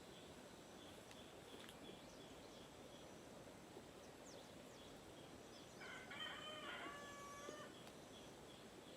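A rooster crowing once, faintly, about six seconds in, a single drawn-out call lasting over a second. Faint high bird chirps are heard around it.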